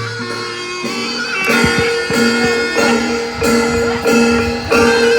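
Traditional Javanese barongan accompaniment music: held tones of a pitched instrument over repeated drum strokes.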